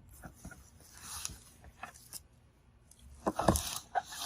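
A padded stereo amplifier being fitted into a cardboard shipping box. There is faint rustling at first, then a few scrapes and knocks near the end as it goes in.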